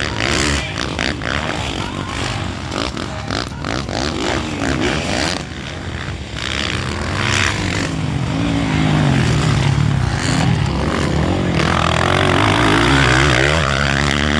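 Motocross dirt-bike engines revving as the bikes race, the pitch rising and falling with the throttle; the engine sound grows louder about halfway through.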